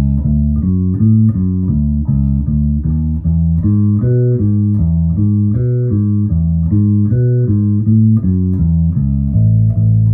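Birdsong Hy5 passive five-string bass, with both Kent Armstrong pickups on full and the tone all the way up, played through an amp: a quick, steady line of plucked notes moving up and down in pitch, ending on a held note.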